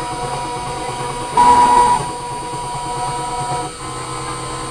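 WALTER 6545 CNC router milling an acrylic plate: the spindle whines steadily with the sound of the cutter in the plastic, getting louder and harsher for about half a second around a second and a half in. Near the end the whine drops and changes pitch as the cut changes.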